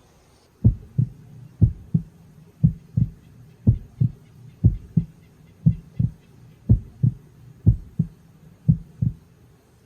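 Heartbeat sound effect: nine double 'lub-dub' thumps, about one a second, then it stops.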